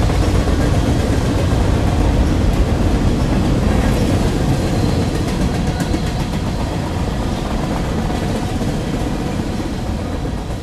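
Train passing by on the tracks: a steady, loud rumble and rattle of wheels and cars, slowly easing off toward the end.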